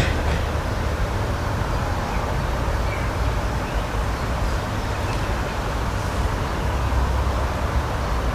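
Steady outdoor nature ambience: a continuous rushing noise with a deep rumble underneath, and a few faint, short high chirps scattered through it.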